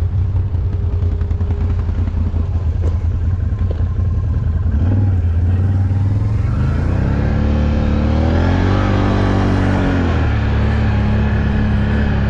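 Off-road vehicle engine running through mud, with a steady low drone at first. It revs up about six seconds in, holds high, and eases back off about ten seconds in.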